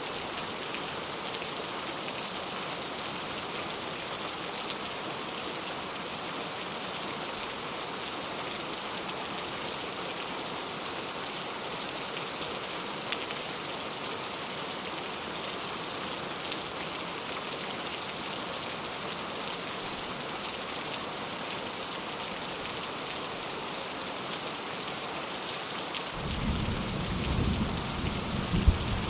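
Steady rain pattering down, an even hiss. Near the end a low rumble of thunder rolls in and swells, with a couple of louder cracks.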